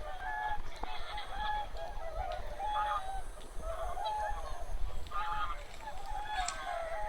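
A large flock of migratory waterfowl honking, many short calls overlapping without a break.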